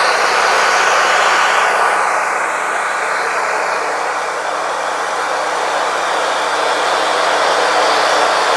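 Wood-Mizer LT40 Wide band sawmill running steadily while milling pine: a dense, even machine noise with a thin steady whine, its upper tone shifting slowly now and then.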